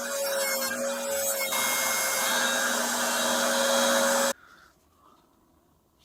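A small electric motor running with a steady whine and a rush of noise, then cutting off suddenly after about four seconds.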